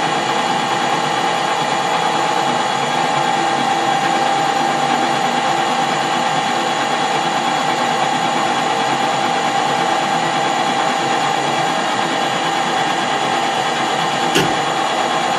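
Metal lathe running steadily, turning a small part from bar stock, with a steady whine from the machine; the cutting tool's tip is slightly worn and the work is unsupported by a tailstock centre. A single short knock comes near the end.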